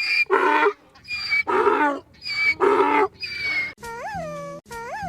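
Donkey braying in repeated hee-haw cycles, the high wheezy 'hee' alternating with the lower 'haw'. About three and a half seconds in it gives way to a quieter repeated rise-and-fall tone.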